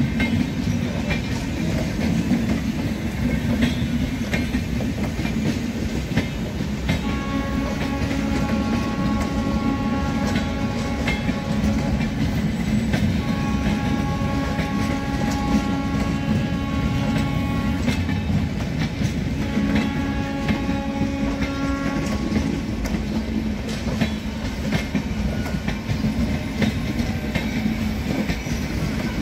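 Indian Railways LHB passenger coaches rolling past, a steady rumble with wheels clattering over rail joints and points. About a quarter of the way in, a multi-tone train horn sounds three long blasts, the last one shorter.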